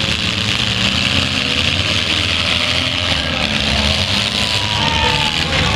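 Engines of several demolition derby cars running together, steady and loud.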